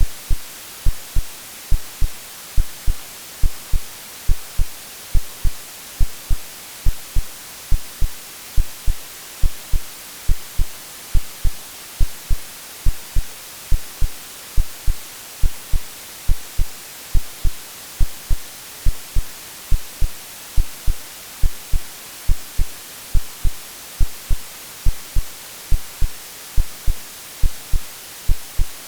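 Steady white-noise hiss with a synthesized heartbeat beneath it: low lub-dub double thumps repeating evenly, about once a second, like the womb sound a baby hears.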